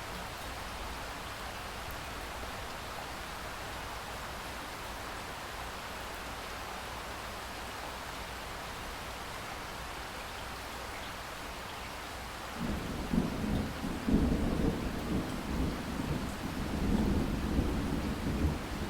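Steady rain hiss, then about two-thirds of the way in a long roll of thunder begins suddenly and rumbles on, swelling and dipping, over the rain.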